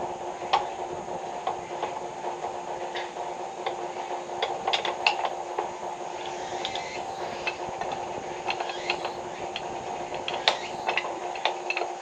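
A steady machine hum with many light clicks and clinks scattered over it, like tools and small hard parts being handled.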